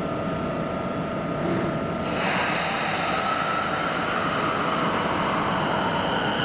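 Keio New Line electric train running in the underground station at Hatagaya: its running noise swells about two seconds in, with a thin high whine above it.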